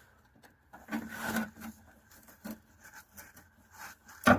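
Faint rubbing and scraping of hands and a tool working at the hose clamp on a fuel line, with one sharp knock near the end.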